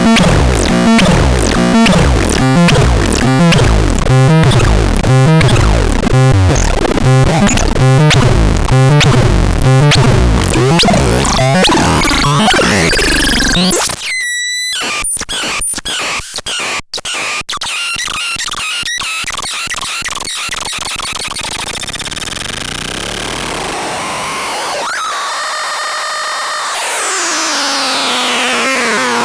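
Noisy electronic synthesizer sound from the Tadralan NT 202: dense pulses about twice a second with falling sweeps for the first twelve seconds. It then drops suddenly to scattered clicks and glitches, and later builds into steadier tones with a long falling sweep near the end.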